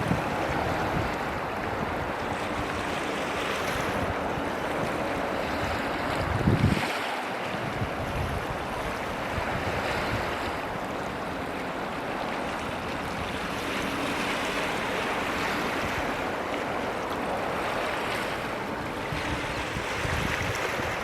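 Steady rushing noise of surf and wind, with low buffets of wind on the microphone, the strongest about six and a half seconds in.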